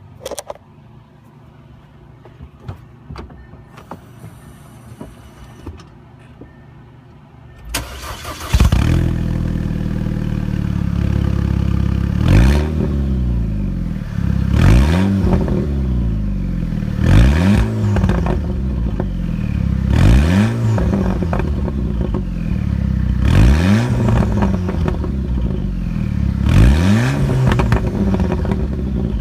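2009 Audi A4 2.0T turbocharged four-cylinder with a straight-piped exhaust (cut before the resonator) starting up about eight seconds in, then idling loudly and being blipped six times, the pitch rising and falling with each rev, roughly every two and a half to three seconds.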